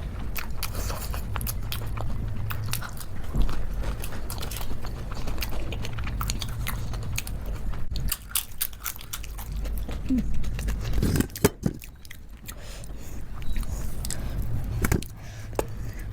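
Close-miked chewing of khichdi with ghee: wet mouth clicks and bites, some sharper around the middle, over a steady low hum.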